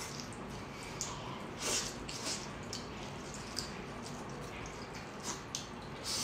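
Wet chewing and lip-smacking of a person eating cooked lobster meat, with a few short wet smacks scattered through.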